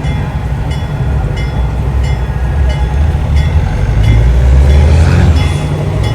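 Heavy diesel truck engines rumbling low as big rigs drive past, growing louder about four seconds in and easing off again near the end.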